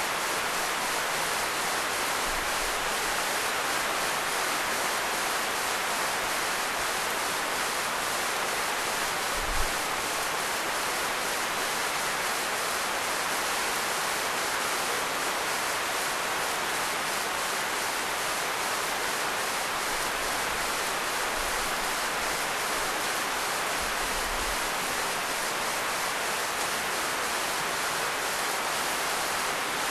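Monsoon rain falling steadily, an even hiss with no letup. One brief low thump sounds about a third of the way in.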